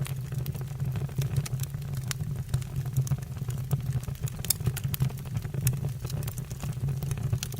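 Wood fire burning in a fireplace: logs crackling with many irregular sharp pops over a steady low rumble of flame.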